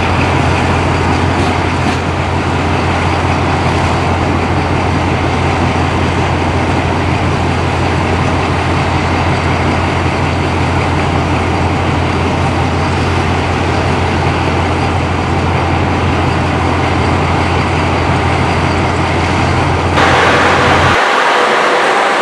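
A railway locomotive running steadily at close range, with a loud, even low drone. About 21 seconds in the sound changes abruptly: the low drone drops away and a brighter rushing noise takes over.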